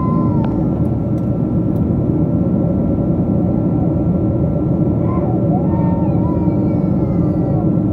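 Steady cabin roar inside a Boeing 777-200 airliner, with a thin steady whine above it and faint passenger voices now and then.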